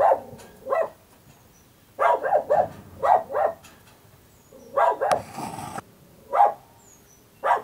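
A dog barking repeatedly in short barks, some single and some in quick runs of two to four.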